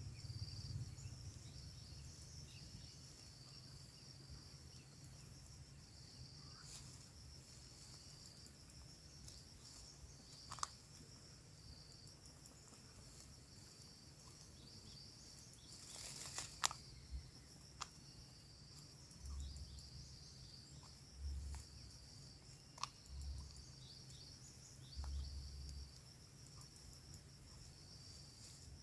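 Faint, steady high chirring of insects with a pulsing rhythm, with scattered sharp clicks and a few short low thumps in the second half.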